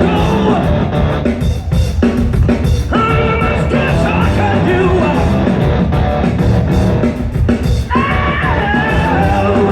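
Live rock band playing at full volume: drum kit and electric guitars with lead vocals sung over them.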